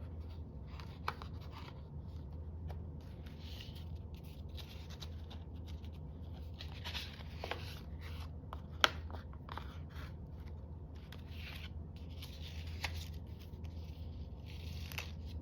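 Quiet handling of craft materials: faint rustling and small clicks, with one sharper click about nine seconds in, over a steady low hum.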